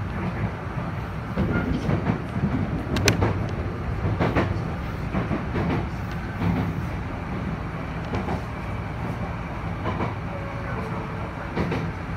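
Enshu Railway electric commuter train running along its track, heard from the front of the car: a steady low rumble with irregular clicks of the wheels over rail joints and points, the sharpest about three seconds in.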